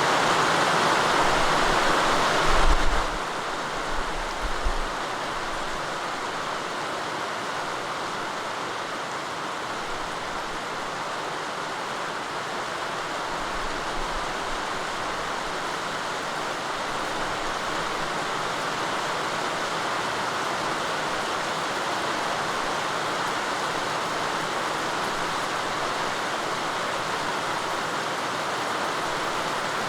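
Steady rainfall, a little louder for the first few seconds, then dropping in level about three seconds in, with a few low thuds around then.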